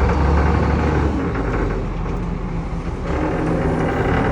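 Heavy machinery running steadily with a deep, loud rumble that is strongest during the first second, typical of engine-driven equipment at a stone-crushing site.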